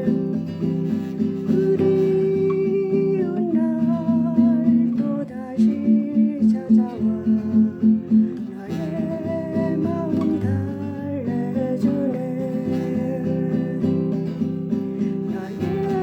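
Acoustic guitar music: a melody line wavering with vibrato over plucked chords. Partway through there is a run of evenly spaced, repeated notes.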